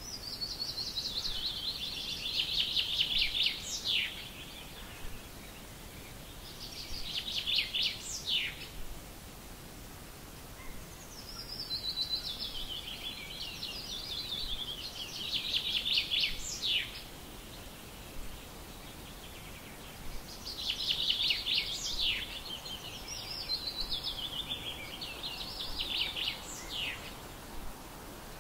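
A songbird singing the same phrase over and over, about every four to six seconds: a rapid run of high notes falling in pitch and ending in a sharp downward flick, over a steady faint background hiss.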